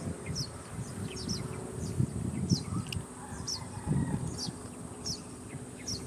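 Small birds chirping: short, high, downward-sliding notes repeated irregularly, a few a second, over a steady high insect buzz and an uneven low rumble.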